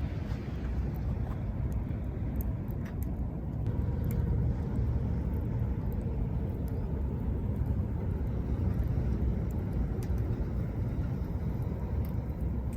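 Steady low rush of surf breaking on the shore, with scattered sharp crackles from a wood campfire.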